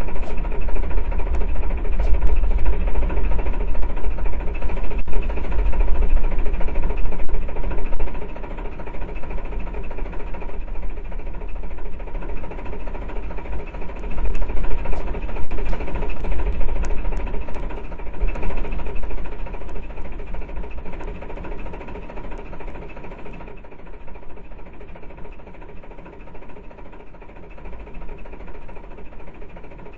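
An engine running steadily with a heavy low rumble and vibration, some small clicks and rattles over it, growing quieter in the second half.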